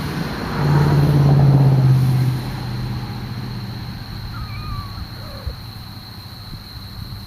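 A motor vehicle engine hum that swells to its loudest for about two seconds, then fades away.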